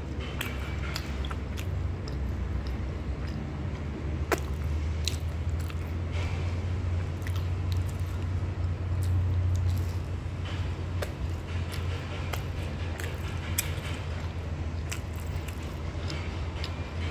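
A person chewing and biting a flaky, crisp pastry puff, giving many small crunchy crackles, over a steady low hum.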